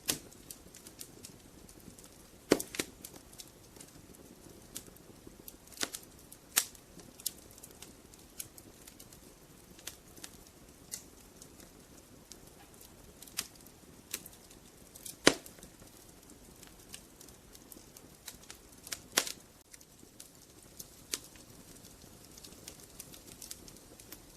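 Wood fire crackling as logs burn: sharp irregular pops and snaps over a low steady hiss, with a few louder pops, the loudest about two and a half seconds in, around fifteen seconds in, and near nineteen seconds.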